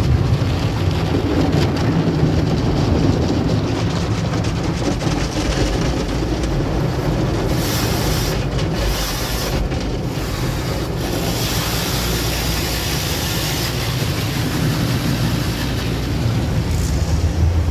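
Automatic tunnel car wash heard from inside the car: a steady low rumble of the wash machinery with water spraying against the car. A brighter hiss comes in about seven seconds in and fades about six seconds later.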